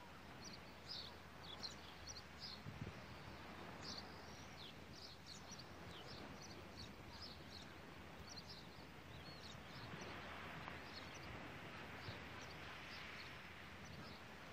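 Small birds chirping: many short, high chirps over a faint, steady outdoor hiss.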